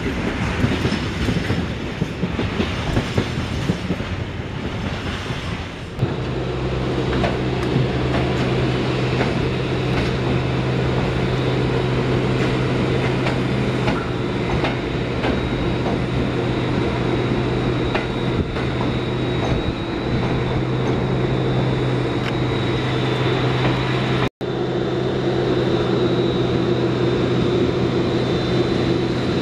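Freight wagons rolling past with a clickety-clack of wheels over rail joints. After a sudden change there is a steady electric hum with a thin high whine, from an EN57 electric multiple unit standing at the platform. The hum breaks off for an instant near the end.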